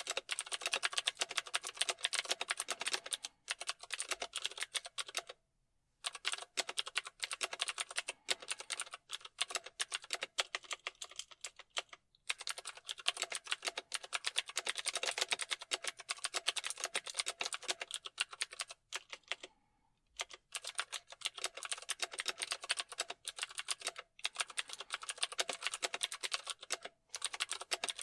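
Typing on a computer keyboard: fast runs of rapid key clicks broken by short pauses of under a second.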